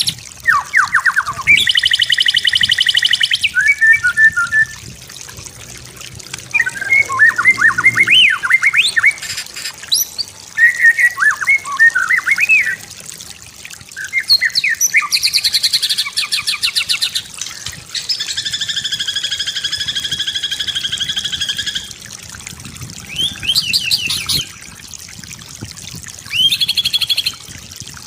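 White-rumped shama (murai batu) singing a varied song of separate phrases: quick whistled glides and trills alternate with fast, buzzy rattling note series, one held steady for about four seconds near the middle.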